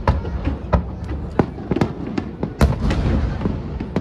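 Aerial fireworks bursting in quick, irregular succession: a string of sharp cracks over a low rumble of booms, with the heaviest burst about two and a half seconds in.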